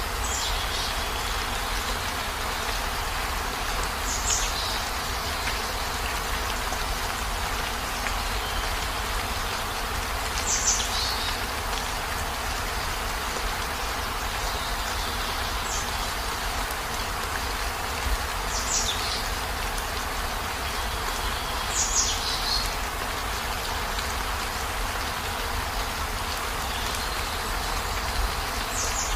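Heavy rain falling steadily, a continuous even hiss with a low rumble beneath. About every three to six seconds a short, high chirp glides downward, seven times in all.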